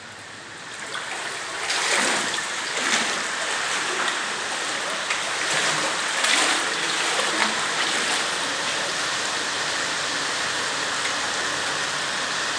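Heavy rain pouring down, a dense steady hiss that swells up about a second and a half in and stays loud, with a few brief splashes.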